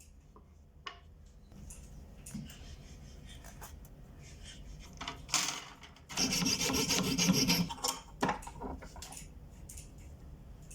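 Hand filing or sanding on a small pendant workpiece: soft scattered scraping strokes, then a louder stretch of rasping for about two seconds in the middle.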